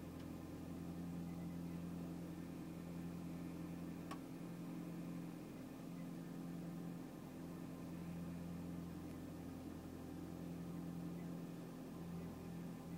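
2002 Audi TT 225 quattro's 1.8-litre turbocharged four-cylinder engine running a steady fast idle of about 1500 rpm after a cold start, the revs bouncing slightly. The owner takes the high idle, which lasts over three minutes, for a fault he cannot place.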